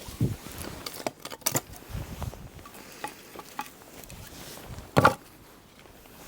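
Pieces of firewood knocking and clattering against each other as they are picked up by hand, with irregular knocks and a few dull thumps and one loud knock about five seconds in.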